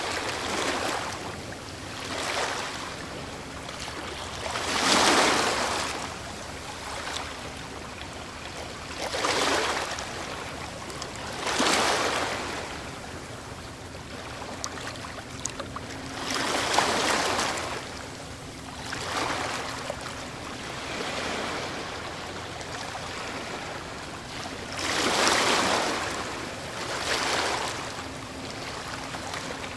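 Ocean waves breaking on a shore, the surf swelling into a louder rush every few seconds at an uneven pace and washing back between breakers.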